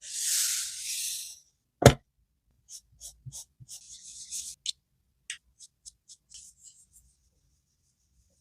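Paper being handled for a scrapbook: a rustle, one sharp tap about two seconds in, then a run of small crinkles and clicks that die away near the end.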